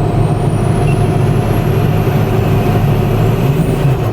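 Diesel pickup accelerating hard under a steady engine drone. Its newly fitted turbocharger gives a thin whistle that climbs steadily in pitch for about three and a half seconds, then fades.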